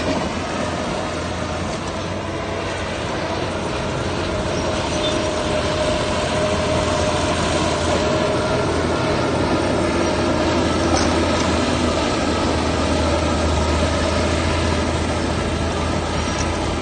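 Heavy earth-moving machinery running: a loud, steady engine drone with a low hum that goes on without a break.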